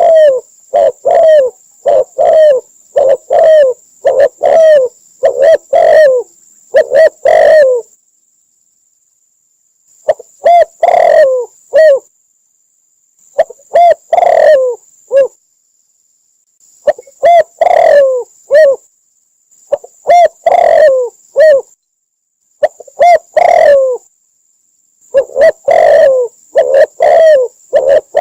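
Spotted dove cooing in quick repeated series of coo notes, about two a second, broken into phrases by abrupt dead-silent gaps. This is an edited, looped call recording of the kind played to lure spotted doves into a trap.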